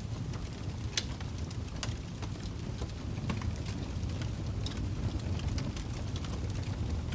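Wood fire crackling in a fireplace: scattered sharp pops and snaps over a steady low rumble of the flames, the sharpest pop about a second in.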